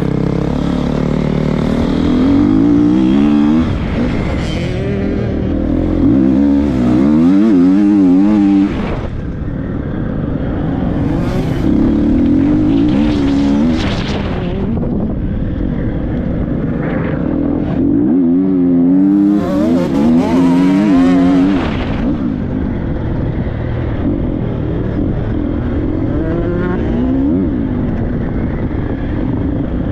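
Triumph 250 motocross bike's four-stroke single-cylinder engine being ridden hard, revving up and backing off again and again, with the two loudest pulls about a quarter of the way in and again about two-thirds of the way through.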